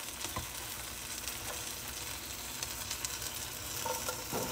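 Chicken breast frying in butter and oil in a skillet, a steady sizzle. Near the end, diced onion is scraped off a wooden cutting board into the pan.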